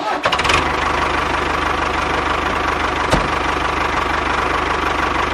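A small engine running steadily at idle with a fast, even knocking beat, and one short click about three seconds in.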